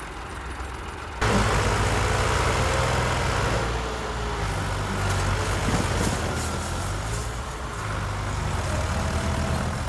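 An engine running steadily at low speed, with a deep even hum; it comes in suddenly and loudly about a second in.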